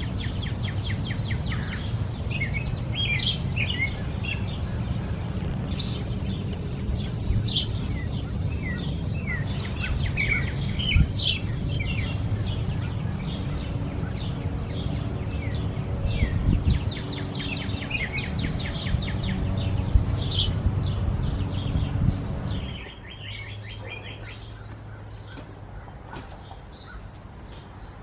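Wild birds chirping and singing in a steady string of short calls and trills, over a low rumble that cuts off sharply about 23 seconds in.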